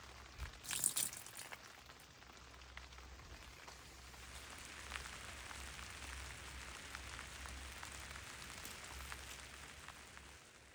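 Steady rain falling on the tent, an even hiss with scattered individual drop ticks, and a few louder clicks about a second in.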